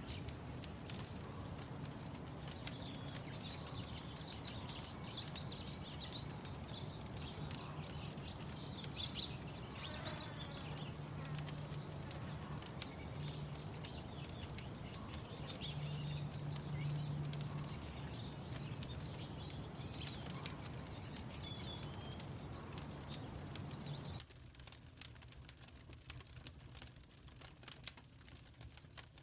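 Small birds chirping over a steady low hum, with a firepit fire crackling throughout and one falling call about ten seconds in. About 24 seconds in the hum and bird sounds drop away abruptly, leaving mainly the crackle of the fire.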